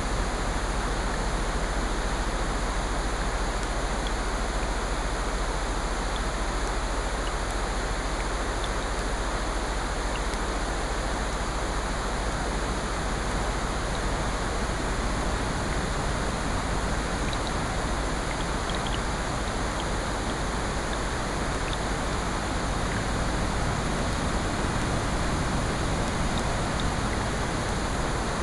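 Steady mix of rain and ocean surf, an even unbroken rush, with faint scattered crackles from a fireplace.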